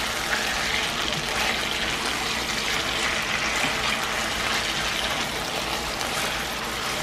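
Marinated chicken breasts frying in oil in a nonstick skillet, a steady sizzle.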